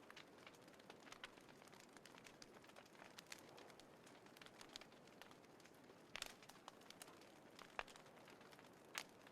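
Small wood fire crackling in a compact folding fire pit: a soft steady hiss under scattered irregular pops and snaps, with a few louder snaps about six, eight and nine seconds in.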